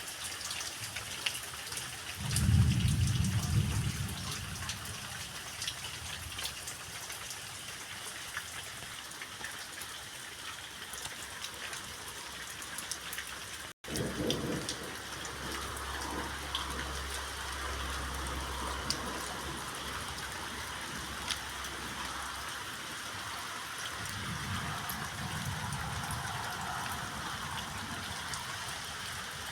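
Summer rain falling steadily, a dense hiss with scattered drop ticks. A strong low rumble about two seconds in and a weaker one near the end.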